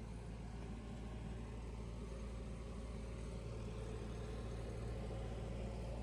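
An engine idling steadily with a low rumble, growing slightly louder. A faint steady whine joins about two seconds in.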